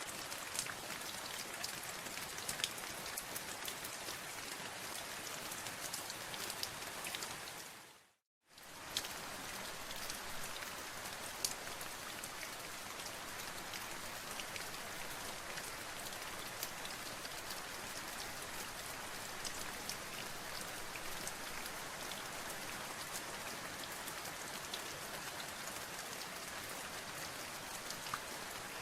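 Steady rain with many sharp drop ticks over an even hiss. About eight seconds in it fades briefly to silence and comes straight back.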